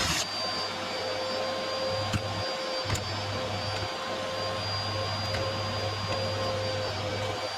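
Vacuum cleaner running steadily with a constant motor whine. A louder rush of air cuts off just after the start, and a couple of sharp clicks come about two and three seconds in.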